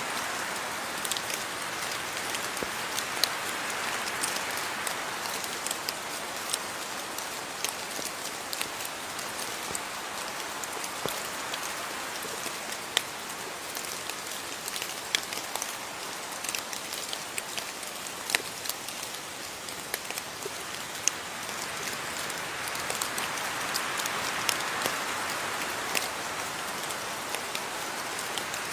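Steady rain falling, a continuous hiss with many distinct drops striking a surface close by as sharp individual taps.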